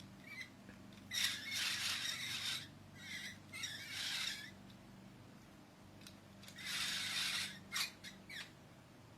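Pet bird giving harsh, raspy squawks in several bursts about a second long, with a few short clicks near the end.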